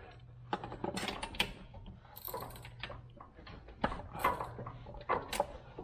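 Irregular metallic clicks and scrapes of hand tools as the spark plug wire is pulled and the plug is loosened on a small UTV engine. A low steady hum is under the first half.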